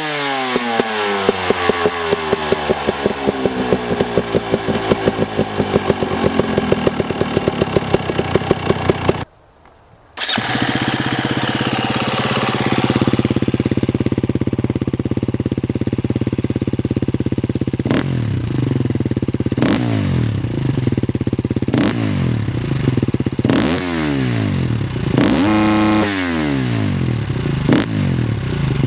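Single-cylinder 2017 Husqvarna enduro motorcycle on its stock exhaust. The engine falls from a high rev back towards idle over about nine seconds, then after a short gap idles steadily, with several quick throttle blips in the second half.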